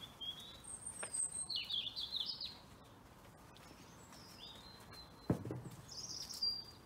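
Small garden birds chirping and twittering in short high calls, with a single dull knock about five seconds in.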